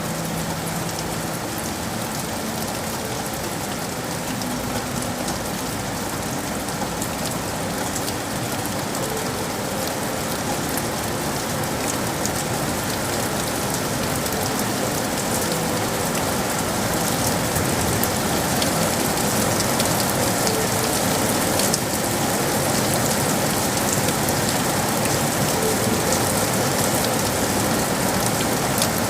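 Steady rain falling on hard surfaces, with many close drops ticking through the hiss; it grows a little louder about halfway through.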